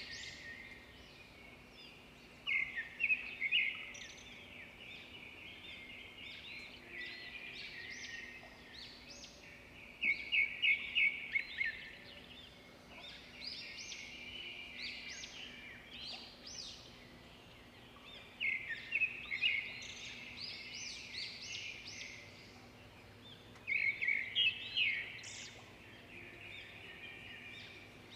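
Birds chirping steadily, with a louder burst of rapid repeated chirps four times, several seconds apart.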